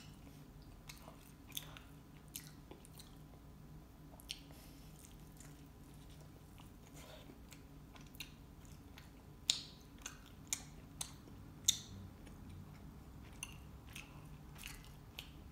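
Close-miked chewing and biting of Cajun chicken wings: moist mouth sounds with scattered sharp clicks, a few louder ones bunched together a little past halfway.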